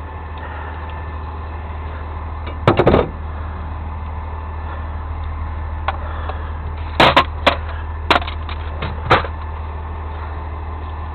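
A steady low engine drone, with a loud clank about three seconds in and a quick run of sharp metallic knocks between about seven and nine seconds.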